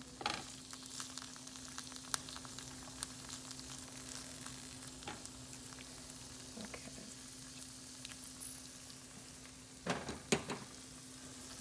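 Green beans sizzling in oil in a frying pan, with scattered small pops and clicks over a faint steady hum. A few louder clacks come near the end.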